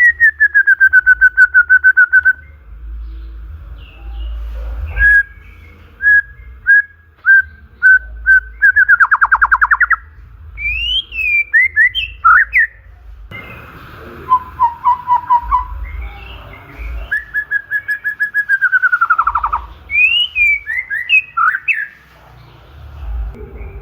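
White-rumped shama (murai batu) singing loudly. It gives fast rattling runs of the same whistled note, single spaced notes, a lower trill, and quick swooping whistles that rise and fall.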